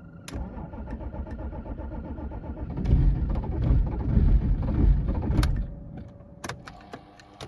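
BMW diesel engine started in deep frost: a click, then the engine cranking and firing roughly, loudest from about three seconds in, before the sound drops away about six seconds in. A few sharp clicks follow near the end.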